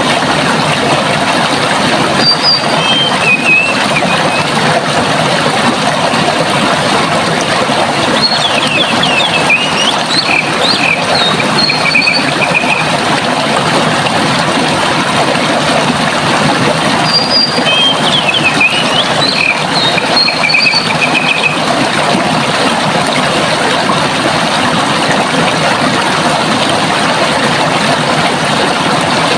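Running water, a steady rush, with a songbird singing three short phrases of quick high whistled notes ending in trills, about two, eight and seventeen seconds in.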